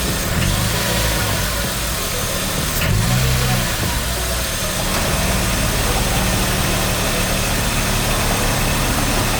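BMW E36 328i's M52 straight-six engine idling, with the throttle tapped twice, about half a second and three seconds in. Coming off idle it makes a shaking, rattling sound that the owner thinks sounds like worn serpentine belt tensioners.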